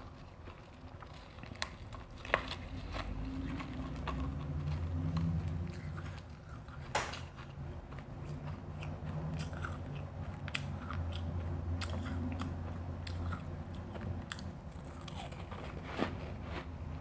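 Refrozen crushed ice being bitten and chewed close to the microphone: scattered crisp crunches over a low, steady chewing rumble, with one especially sharp crunch about seven seconds in.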